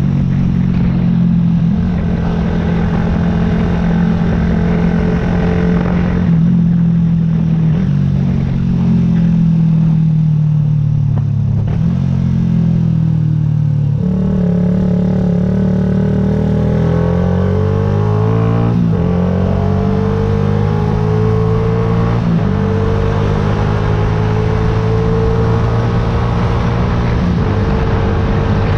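Yamaha YZF-R125's single-cylinder 125 cc four-stroke engine under way, its note falling in steps through the first half, bottoming out past the middle, then climbing again with a gear change about three-quarters through.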